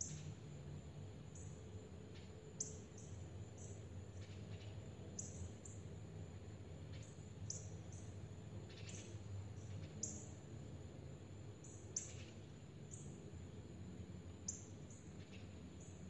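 Wild birds chirping: short high-pitched chirps repeating irregularly, a few a second, with a few sharper chirps standing out. A steady low hum of outdoor background noise sits under them.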